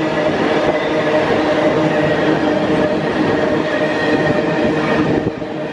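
Empty iron-ore wagons of a long freight train rolling past: a steady rumble and clatter of wheels on rail with some steady ringing tones on top, dipping briefly near the end.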